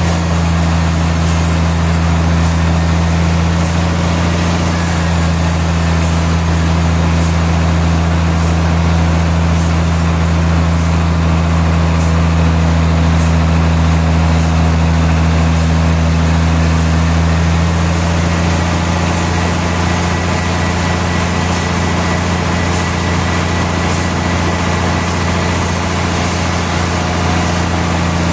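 Sawmill machinery running with a steady, loud low drone, its tone shifting slightly about two-thirds of the way through.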